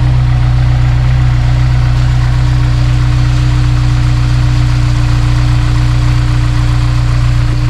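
Honda S2000's F20C four-cylinder engine idling steadily, warmed up. The owner hears a ticking coming in, which he puts down to a worn timing chain tensioner letting the chain move, but the tick barely comes through.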